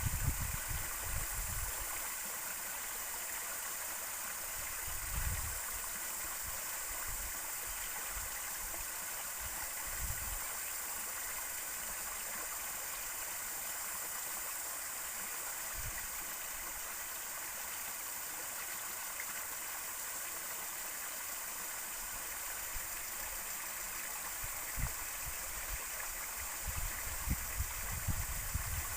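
River water flowing: a steady, even rush of a clear stream. A few short low bumps on the microphone break in near the start, around five and ten seconds in, and near the end.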